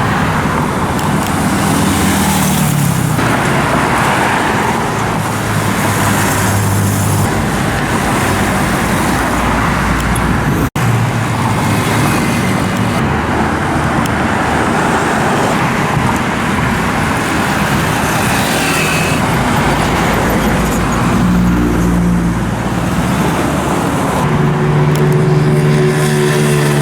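Road traffic of motorcycles: several small engines running and passing one after another, their pitch rising and falling over a steady roadway noise. The sound drops out for an instant about ten seconds in.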